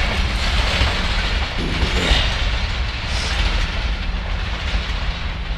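Khyber Mail passenger train going away down the track, its coaches' wheels rumbling and clattering on the rails, slowly fading.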